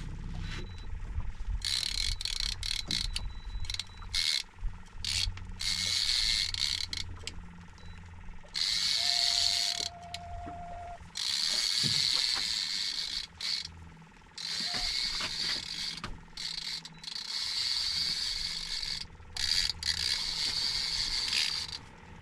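A conventional star-drag fishing reel's drag buzzing in repeated runs of a second or two with short pauses, as a hooked shark pulls line off the spool.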